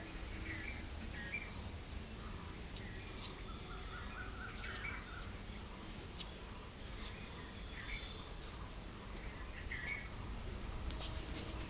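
Small birds chirping on and off, short chirps and quick whistled glides, over steady low outdoor background noise, with a few faint sharp clicks.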